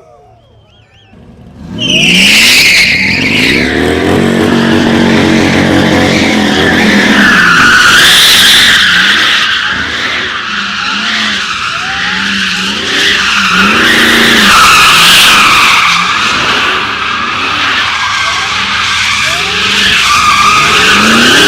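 A car doing donuts: tyres squealing steadily with the engine revving hard underneath, its pitch rising and falling. It starts suddenly about two seconds in, after a brief quiet.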